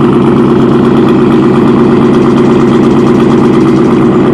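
Car engine idling steadily through a Roush full cat-back exhaust with muffler deletes and no catalytic converters; the idle is really loud, and it has settled back down after the cold start.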